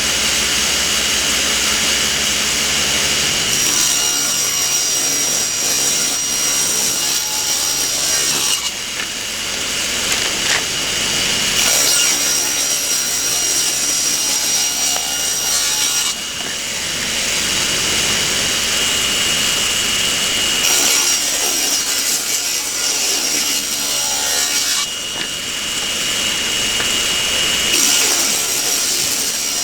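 Table saw running and ripping narrow strips of wood, several passes in a row. The sound changes every few seconds as each pass through the board begins and ends.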